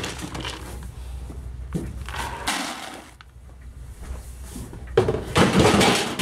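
Dry horse feed being scooped and poured into a feed bucket, in two noisy bursts: a short one about two seconds in and a longer, louder pour near the end.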